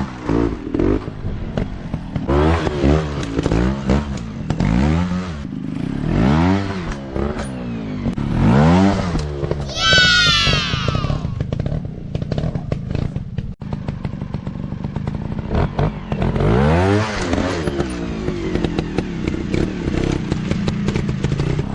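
Dirt bike engines revving up and down in repeated throttle blips, with a brief high-pitched rev about ten seconds in.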